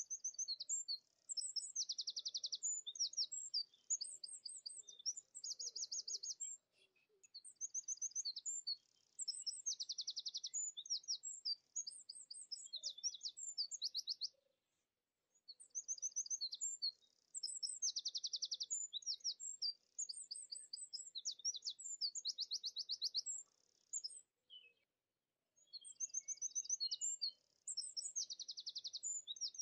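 Small songbirds chirping and singing high, fast trilled phrases, in bouts of several seconds with short pauses between them.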